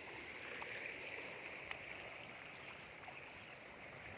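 Steady rush of flowing floodwater, like a stream running, with a faint single click about two seconds in.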